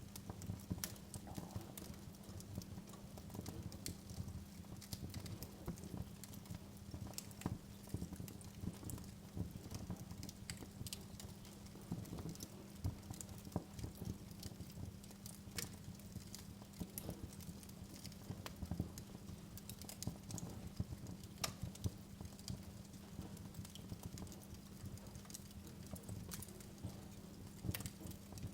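Wood fire crackling in a fireplace: irregular sharp pops and snaps over a steady low background of flame noise.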